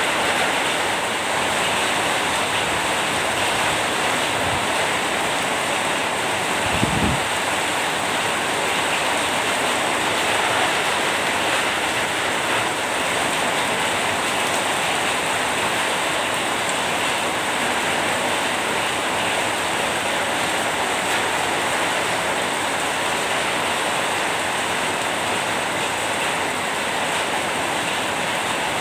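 Heavy rain falling steadily, an even hiss of drops, with one brief low thump about seven seconds in.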